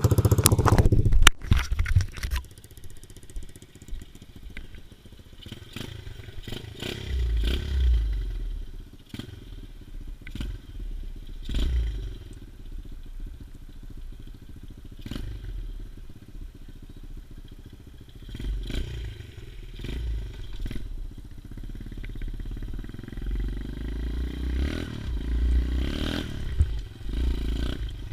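110cc pit bike's single-cylinder four-stroke engine running while the bike is ridden, loudest in the first two seconds. After that it is quieter, with low rumbling and swells and frequent knocks and rattles.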